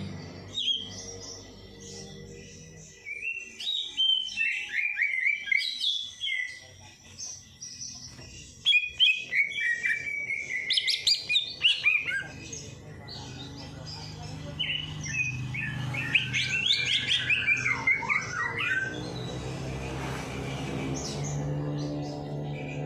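Songbird singing in three bursts of rapid, varied chirps and trills, with a low steady drone underneath that grows louder near the end.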